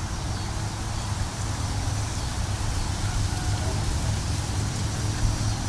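Steady outdoor ambience from a stereo field recording: a continuous noisy wash with a low rumble underneath, and a few faint short calls near the end.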